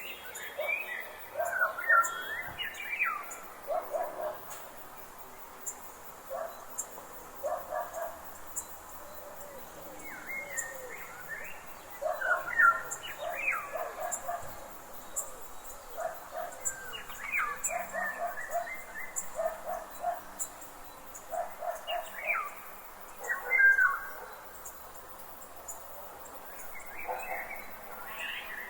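Wild birds calling in a forest: bursts of quick chirping, gliding whistles and short repeated lower notes that come back every few seconds. Faint high ticking runs evenly underneath.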